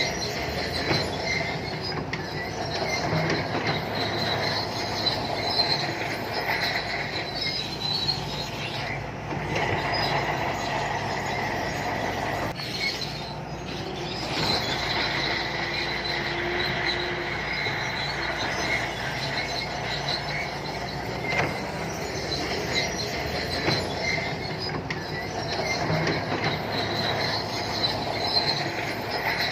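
Shantui crawler bulldozer working, its engine running under a steady high-pitched squeal and scattered clicks from the steel tracks.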